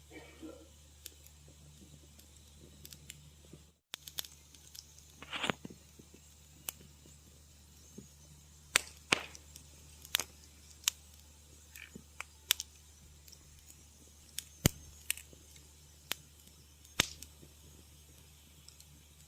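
Wood fire crackling, with irregular sharp pops and snaps, one short hiss about five seconds in, and a steady low hum underneath. The sound cuts out completely for a split second just before four seconds in.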